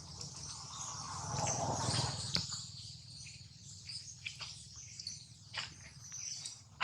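Birds chirping over outdoor ambience, with scattered light clicks and a brief swell of noise from about one to two and a half seconds in.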